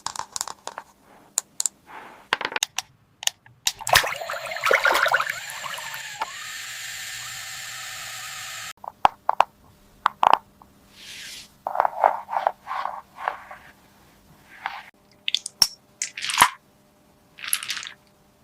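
Small plastic toy pieces clicking, tapping and being handled. About four seconds in, a steady hiss starts and runs for about five seconds before cutting off suddenly. It is followed by more clicks and short scraping bursts.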